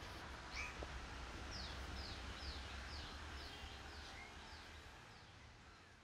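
A bird calling a quick series of about nine short, high notes, each sliding downward, over a steady low rumble; the sound fades toward the end.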